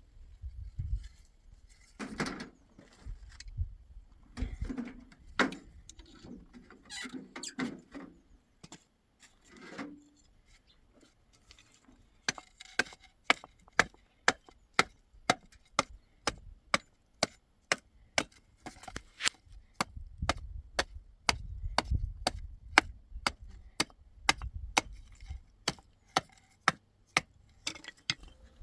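Hammer striking wood during repair of a wooden door: a few scattered knocks and squeaky scraping at first, then from about twelve seconds in a steady run of sharp blows, about two or three a second.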